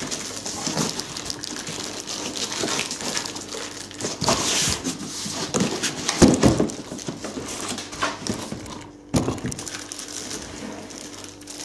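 Packaging being handled during an unboxing: irregular crinkling and rustling with scattered knocks, loudest about six seconds in.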